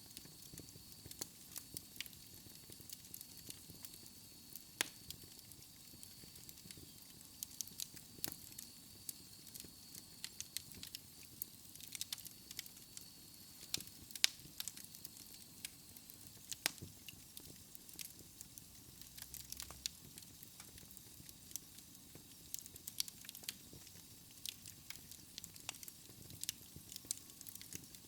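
Wood fire crackling in a fireplace: irregular pops and snaps over a soft hiss, with a faint thin high whistle during the first half.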